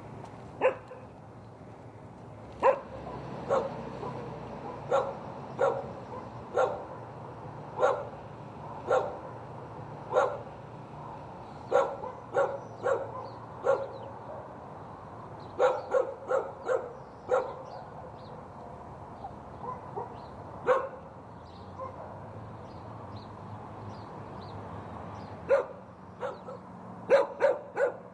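A dog barking: single short barks roughly once a second, thinning out for a few seconds in the middle, then a quick run of barks near the end.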